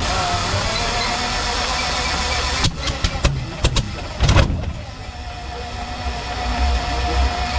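Rolls-Royce Meteor V12 engine being cranked on a start attempt, a steady mechanical run that begins suddenly. About three seconds in comes a quick string of sharp bangs as it tries to fire, followed by a steadier running sound.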